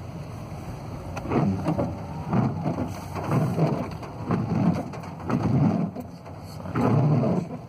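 Rain on a car, heard from inside the cabin: a steady wash of noise with louder swells about once a second.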